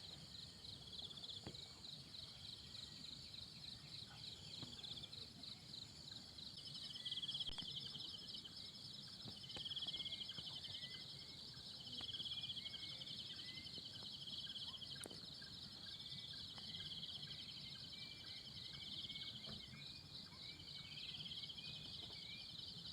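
A steady chorus of insects trilling in rapid pulses, swelling louder every few seconds, with a few faint bird chirps.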